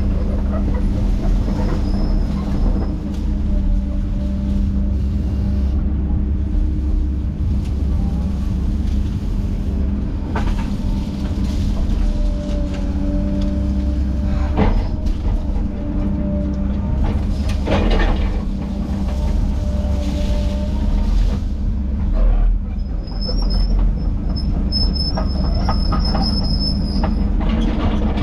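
Diesel engine of a heavy tracked machine running steadily under load, with squeals and several sharp metal clanks from its tracks and working gear.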